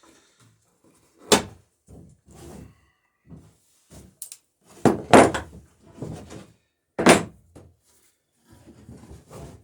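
Hammer striking a copper boat rivet held against a backing block, peening its head round. It gives a few sharp strikes at uneven intervals: one about a second in, a close group around five seconds and another around seven, with lighter taps between.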